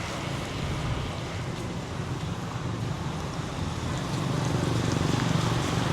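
Road traffic: a steady hum of passing motor vehicles, with an engine growing louder near the end as one approaches.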